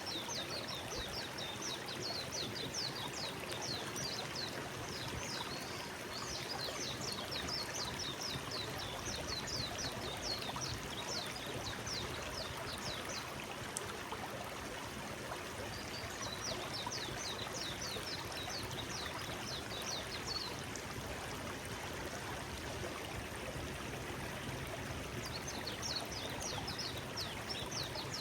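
Forest stream flowing steadily, with a small bird singing bouts of rapid, high, repeated notes four times over the stream's rush.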